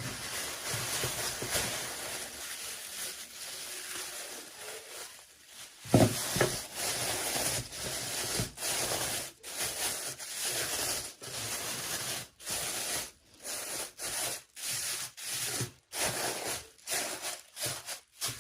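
Toy packaging being handled and opened by hand: steady rustling and rubbing, a sharp knock about six seconds in, then short bursts of scraping and tearing with brief pauses between them.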